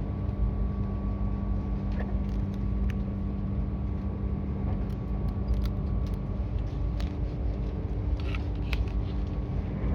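Steady rumble and motor hum of a Tobu 350 series electric train heard from inside the carriage while it runs, with scattered light clicks and taps from things being handled close by, more of them in the second half.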